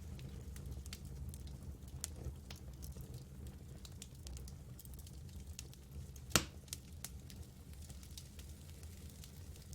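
Campfire burning, with scattered sharp crackles over a low steady rumble and one louder pop about six seconds in.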